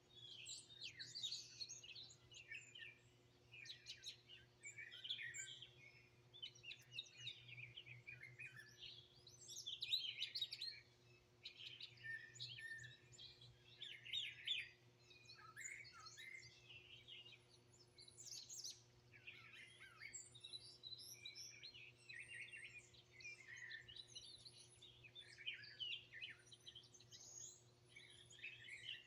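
Several songbirds chirping and singing at once, faint, with many short calls and trills overlapping throughout. A low steady hum runs beneath them.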